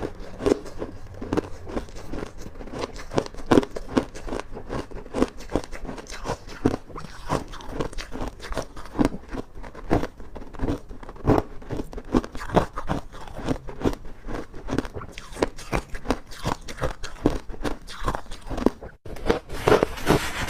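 Ice being bitten and chewed close to the microphone: a quick, uneven run of hard crunches, several a second, with a brief break near the end.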